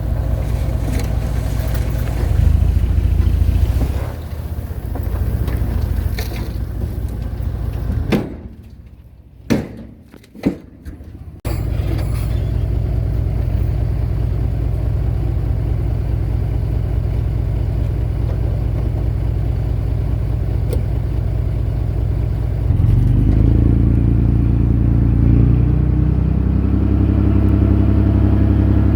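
Diesel engine of heavy earthmoving machinery running steadily under work. About eight seconds in it drops away to a brief lull with a couple of knocks, then comes back suddenly. Near the end it grows louder with a steadier, deeper engine note.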